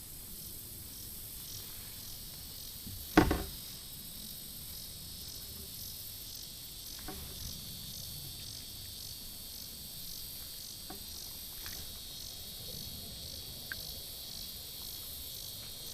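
Insects chirring steadily in a high, evenly pulsing chorus on the creek bank. A single sharp knock about three seconds in, with a few faint clicks later.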